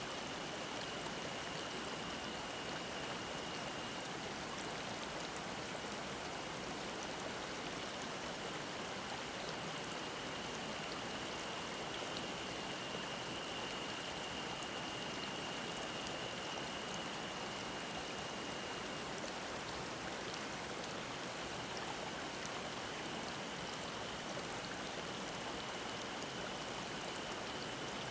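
Mountain stream babbling in a steady rush of water. Above it, a cicada's thin, high, steady drone fades and returns, strongest about halfway through.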